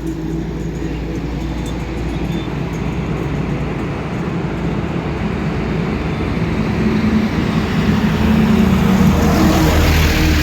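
Highway traffic with a bare truck chassis driving past: a steady low engine hum over tyre and road noise, growing louder in the last few seconds as a vehicle comes close.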